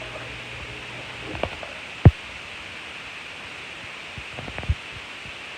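A steady low hum stops about a second in. Then come a few dull, sharp thumps, the loudest about two seconds in, over a steady hiss.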